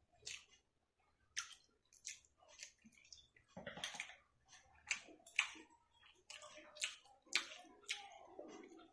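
Close-up wet chewing and lip-smacking on a mouthful of rice and egg curry, with fingers squishing and mixing the rice on a steel plate. The sound comes as a string of short, sharp smacks, about one or two a second.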